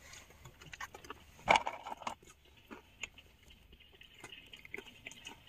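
Small sounds of someone eating: quiet chewing with scattered clicks and rustles, and one sharper click about a second and a half in.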